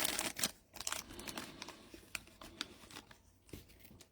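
Trading cards being handled and slid against one another, with light crinkling, in quick small clicks and rustles that thin out after about two and a half seconds.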